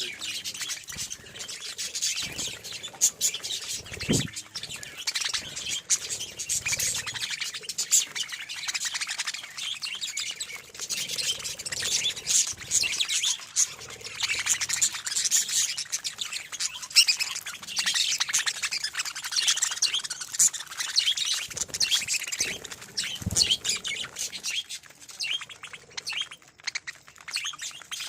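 Budgerigars chattering: a dense, continuous run of high chirps and warbles.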